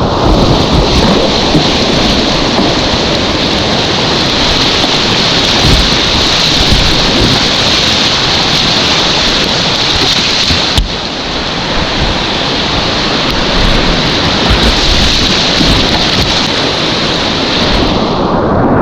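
Whitewater rushing loud and steady around a kayak, with a deep rumble underneath. A single sharp click sounds about halfway through.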